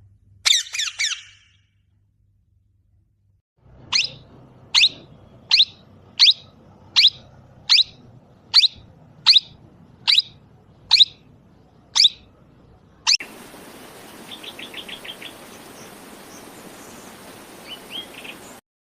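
A parrot calling: a quick cluster of high-pitched calls, then about a dozen single sharp calls evenly spaced, a little more than one a second. Near the end a steady hiss comes in with a few faint soft chirps, and the sound cuts off suddenly.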